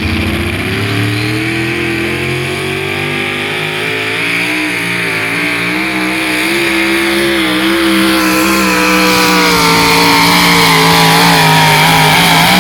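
A pulling vehicle's engine running hard at high revs. Its pitch climbs over the first second or so and then holds high with a slight waver, and it grows louder over the second half.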